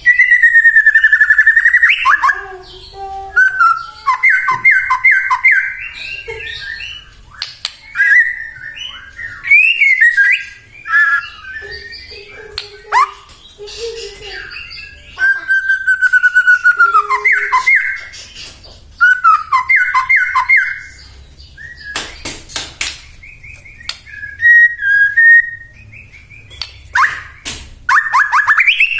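White-rumped shama (murai batu) singing a loud, varied song in bouts with short pauses: long falling whistles, runs of quick repeated sweeping notes, and a few harsh rasping notes about two-thirds of the way through.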